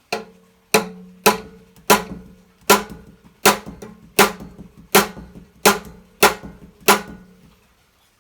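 Hammer blows on the metal frame of an old Honda generator, knocking a slightly bent section back into shape. About eleven sharp strikes come at a steady pace, each leaving a short metallic ring, and they stop a little before the end.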